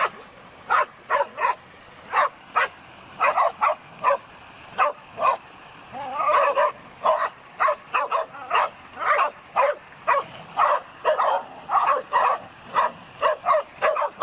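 Dogs barking in quick, short barks, about two a second, with a denser run of overlapping barks about six seconds in.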